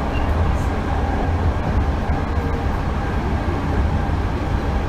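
Hankyu 8000 series electric train running at steady speed between stations, heard from inside the car: an even low rumble of wheels on rail and running gear, with a faint steady tone above it.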